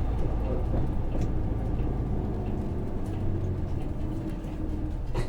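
Hino PJ-KV234L1 city bus's 6HK1 diesel engine running on the road, with a continuous low rumble heard from inside the cabin. The engine note grows stronger about three seconds in, and there is a short knock near the end.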